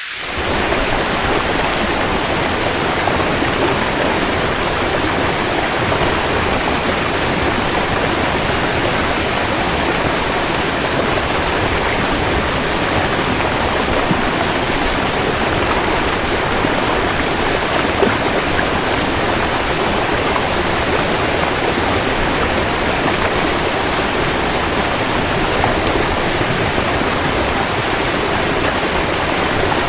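Steady heavy rain used as white noise: an even, dense rushing hiss with no single drops standing out, fading in within the first second.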